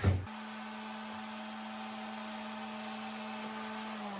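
Electric power sander fitted with coarse sandpaper, switched on with a knock and then running at a steady speed with a steady motor whine over a hiss, beginning to wind down in pitch at the very end.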